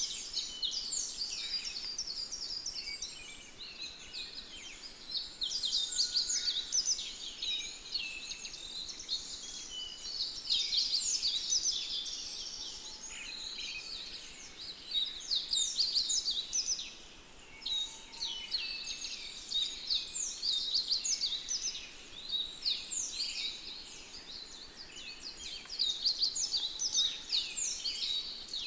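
A dense, continuous chorus of many small birds chirping, the short high chirps overlapping with no pause.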